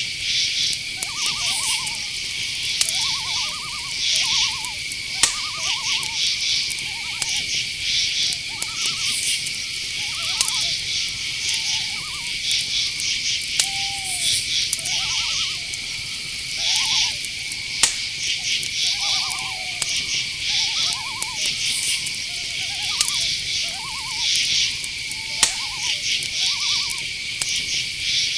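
Night-forest chorus of crickets: a steady high trill with rhythmic pulsed chirps above it. Short pulsed calls repeat about once a second beneath it, and a few sharp clicks stand out.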